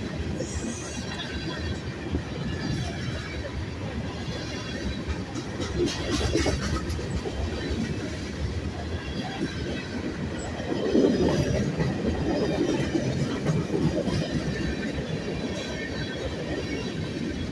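Freight train of hopper cars, boxcars and tank cars rolling past close by: a steady rumble and clatter of steel wheels on the rails, with faint high wheel squeal. It grows louder about two-thirds of the way through.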